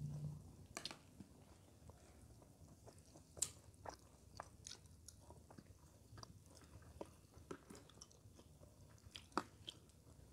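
Faint eating sounds: chewing fried rice, with scattered small clicks from spoons on plastic plates.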